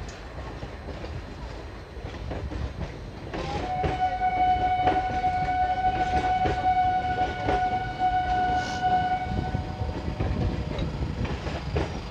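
MEMU electric train rolling past with a rumble, its wheels clicking over the rail joints. About three and a half seconds in, a train horn sounds one long steady note for about six seconds.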